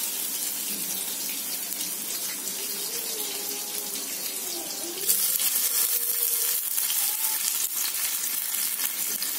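Battered, stuffed pumpkin flowers sizzling in shallow oil on a flat tawa, a steady frying hiss that grows louder about five seconds in as a second flower goes into the oil.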